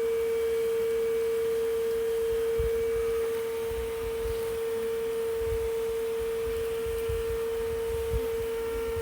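Bee vacuum, a shop vac adapted to suck up a swarm without harming the bees, running with a steady, high-pitched whine, under irregular low rumbles.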